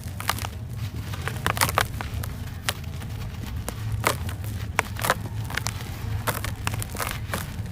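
Dry, dusty red sand chunks crumbling and crunching, a run of irregular crisp crackles and snaps, over a steady low hum.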